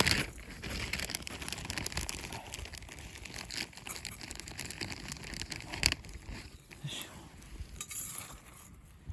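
Dry rustling and crinkling handling noise, with a sharp knock at the start and another about six seconds in.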